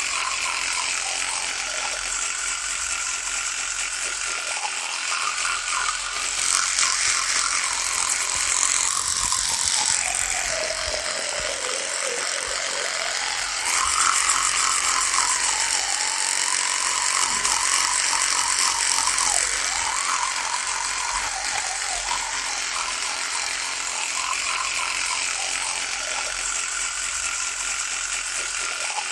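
Electric toothbrush running with a steady high buzz, its pitch dropping for a couple of seconds about a third of the way in and then wavering back up, as when the head is pressed against teeth.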